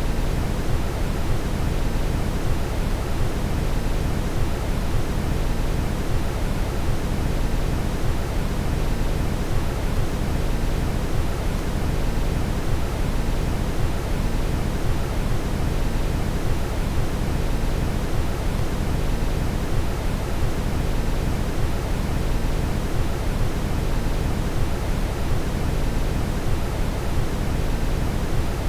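Steady brown noise: an even, deep rushing hiss, heaviest in the low end and unchanging throughout.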